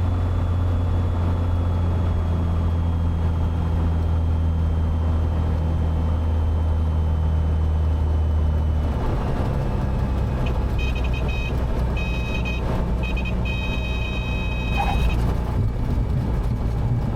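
Cessna 182 engine and propeller drone heard inside the cabin on landing; about nine seconds in the low drone changes as power comes off. A high warning tone then sounds on and off for several seconds, typical of the stall warning horn in the flare.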